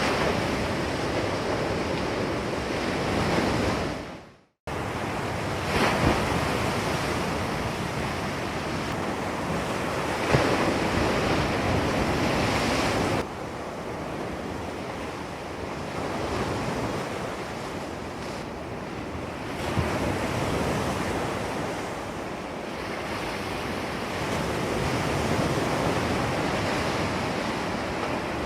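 Ocean waves crashing and surf washing: a continuous rush of water noise that swells louder with several crashes. It fades out to a brief silence about four seconds in, then starts again abruptly, and drops to a lower level about halfway through.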